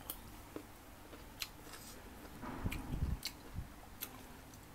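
Close eating sounds: a man chewing crisp slices of raw green mango, with a few sharp wet mouth clicks and a louder, low, rough stretch a little past halfway.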